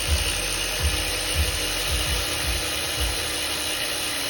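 Ratchet wrench running continuously on a bolt in the LS4 V8's bottom end, likely a connecting-rod cap bolt as the rod bearings are pulled: a dense rattle with a dull knock about every half second.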